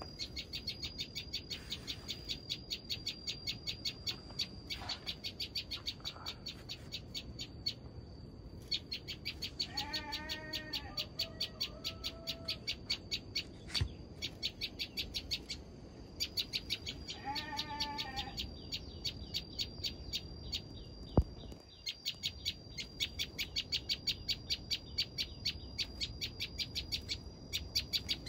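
A prinia (cikblek) calling in long runs of rapid, sharp repeated notes, about five a second, with short pauses between runs. Twice, about ten and seventeen seconds in, a lower wavering call from another animal cuts in briefly.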